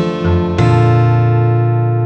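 Background music on acoustic guitar: a chord is strummed about half a second in and left to ring, slowly fading.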